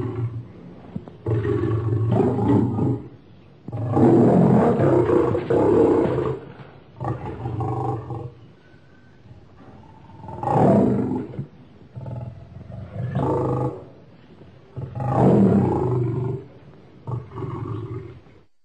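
Lion roaring: a run of loud roars and grunts, each lasting one to two seconds, with short pauses between them.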